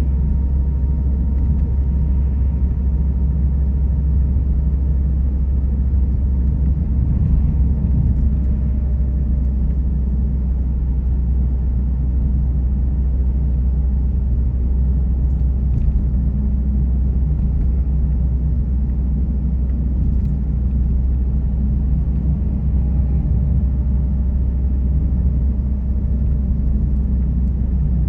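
Steady low rumble of a car driving on the road: tyre and engine noise at a constant speed.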